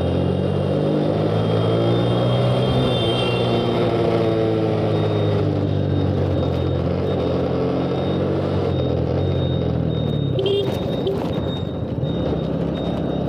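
Motorcycle engine running under way, its pitch rising a little in the first few seconds and then holding steady, over steady road and wind noise. A brief higher tone and a few clicks come about ten and a half seconds in.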